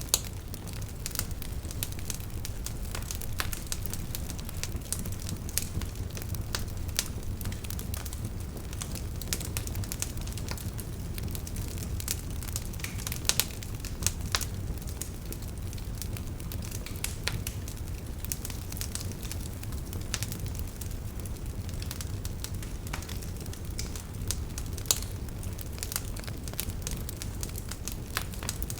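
Campfire burning: a steady low rumble of flames with irregular crackles and sharp pops of burning wood, a few louder pops about halfway through and again near the end.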